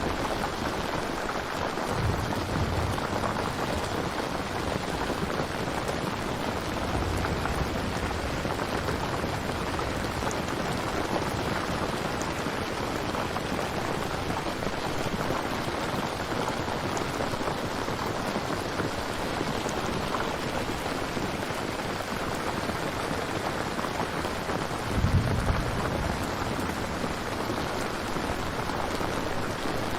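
Steady rain in a thunderstorm, falling evenly throughout. Brief low rumbles of thunder come about two seconds in and again, louder, about 25 seconds in.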